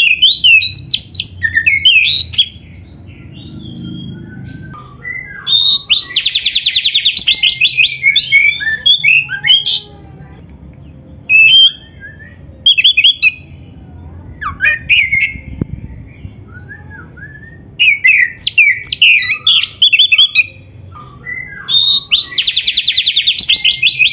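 Oriental magpie-robin singing a loud, varied song in bursts of quick whistles, chirps and rapid buzzy trills, with short pauses between phrases. The song is packed with varied phrases, the kind of full song used to train captive magpie-robins.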